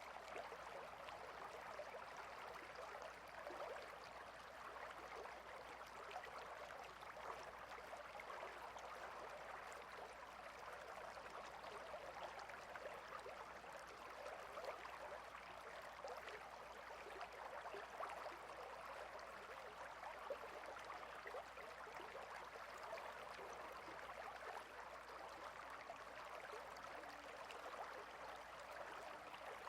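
Stream water flowing and trickling steadily, faint and even throughout.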